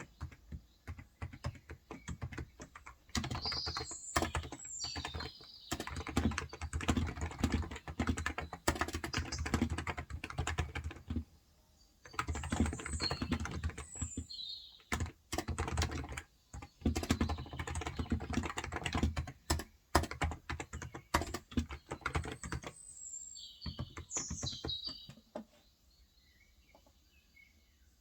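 Fast typing on a Cox Endeavor tenkeyless keyboard with 35 g electrostatic capacitive (non-contact) switches, in long runs of keystrokes broken by a few short pauses, stopping near the end. Birds chirp now and then in the background.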